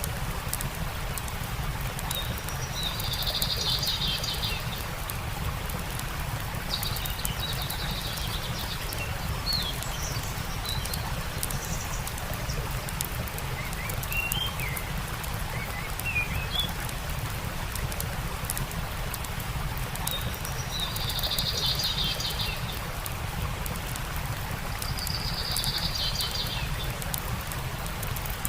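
Stream running steadily, with a campfire crackling and birds calling: four short buzzy trills and a few brief chirps.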